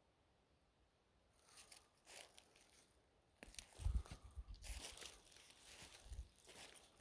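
Close crinkling and rustling that starts about a second in and comes and goes, with a few low bumps in the middle.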